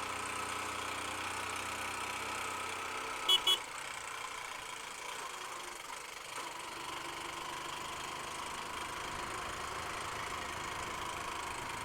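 Honda Unicorn single-cylinder motorcycle engine running steadily while riding, heard from the bike itself. About three seconds in, two short horn beeps sound in quick succession.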